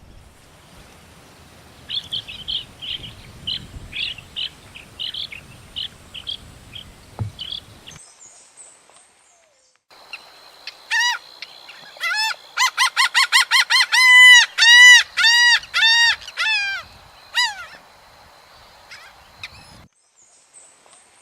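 Wild birds calling: first a run of short, high, quick notes, then, after a brief gap, a louder series of lower-pitched calls repeated evenly, about three a second.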